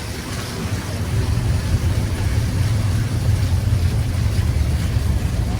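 Steady low rumble of a taxi driving, heard from inside the cabin: engine and tyre noise on a wet road.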